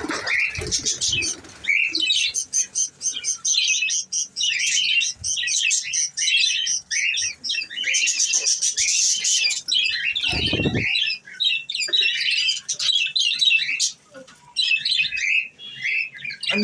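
A flock of budgerigars chattering, with many short chirps and warbles overlapping without a break.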